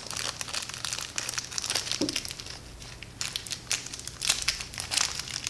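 Small plastic parts bag crinkling and rustling as screws are picked out of it by hand, in quick irregular crackles.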